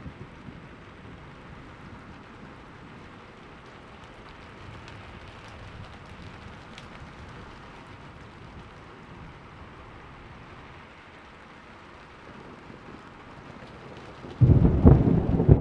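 Steady rain falling, then a sudden loud crack and rumble of thunder near the end.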